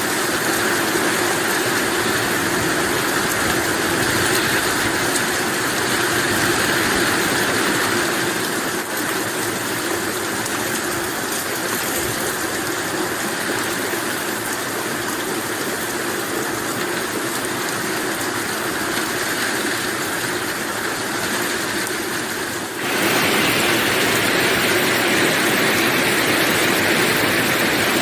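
Heavy rain falling, a steady, even hiss. About 23 seconds in it cuts briefly and comes back a little louder and brighter, as one rain recording gives way to another.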